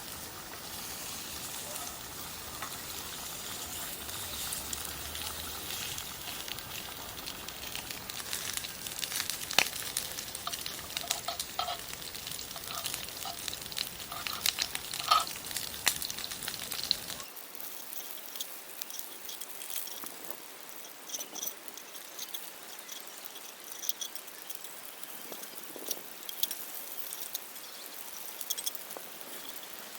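Wood cooking fire crackling, with a steady sizzle and many sharp pops. About 17 seconds in the low rumble under it cuts off abruptly.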